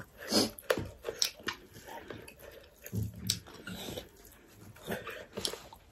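People chewing and eating by hand, close to the microphone: scattered soft wet clicks and mouth smacks with short pauses between.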